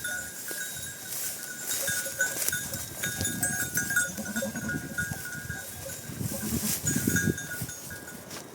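A flock of goats and sheep bleating now and then, with a metallic ringing, likely their bells, sounding on and off throughout.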